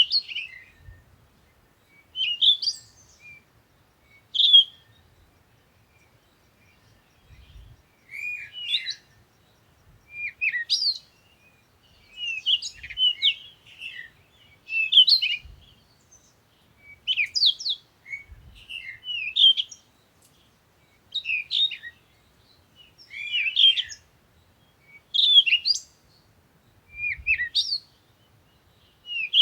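Songbirds chirping and tweeting in short, varied phrases that come every second or two, with a brief lull a few seconds in.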